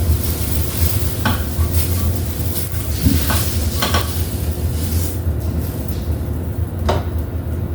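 A utensil scraping and tapping in a frying pan as scrambled eggs are scooped out onto a plate: several short scrapes and clicks over a steady low hum.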